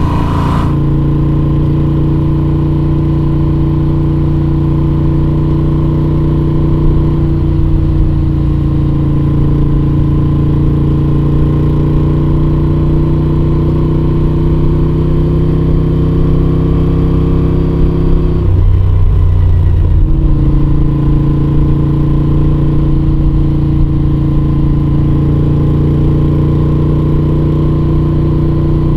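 2021 Moto Guzzi V7 850's air-cooled transverse V-twin, fitted with Mistral short conical mufflers with dB killers in, running at a steady cruise. The steady note breaks off for a second or two about two-thirds through, then picks up again at the same pitch.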